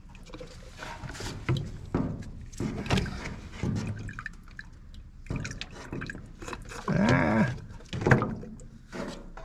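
Brake fluid being poured and splashing, with irregular knocks and clatter from handling the bottle and parts. About seven seconds in there is a startled cry of "Ah!" as the fluid spills.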